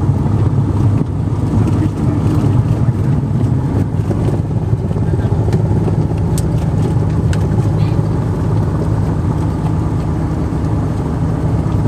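Airliner cabin noise: a steady, loud rumble and hum of the jet engines and airflow heard from inside the cabin.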